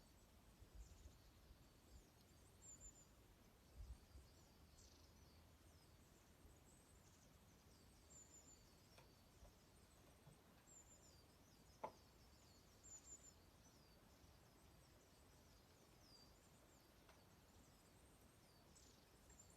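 Faint chirping of many small songbirds, short high call notes repeating throughout. One sharp crack about twelve seconds in.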